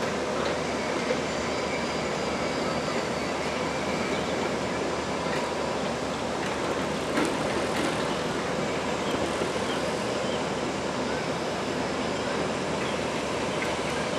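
Steady running noise of an engineering locomotive slowly hauling a new passenger train along depot track, with a few faint clicks partway through.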